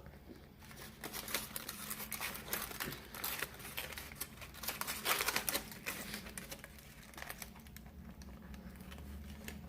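Crinkling and rustling of fast-food wrapping paper being handled, in irregular bursts of sharp crackles.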